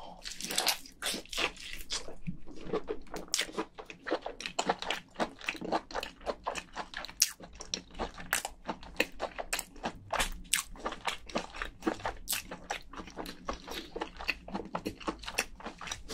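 A person biting and chewing a large mouthful of soft cooked crayfish meat: a steady run of quick, irregular wet mouth clicks and smacks.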